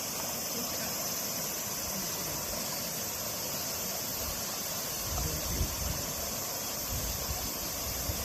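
Steady outdoor hiss, with low rumbling wind gusts on the microphone starting about five seconds in.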